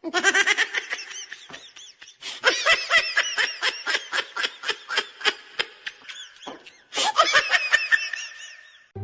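High-pitched laughter in rapid, repeated bursts, in three long runs with short breaks between them.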